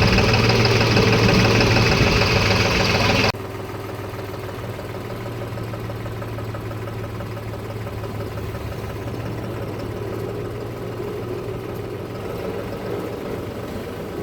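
Freshly serviced tractor diesel engine running steadily with an even hum. About three seconds in, the sound drops suddenly to a quieter, duller level and runs on steadily.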